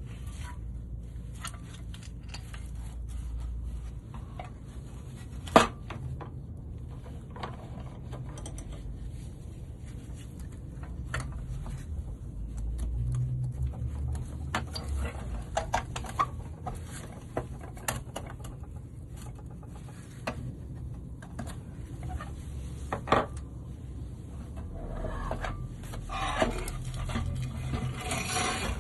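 Hand-tool work on a car during restoration: scattered scrapes, clinks and knocks over a low steady rumble, with two sharp knocks standing out.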